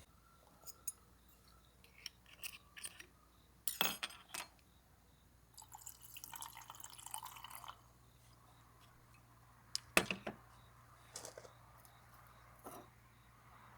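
Glass and tableware clinking and knocking several times, with a pour of liquid lasting about two seconds midway.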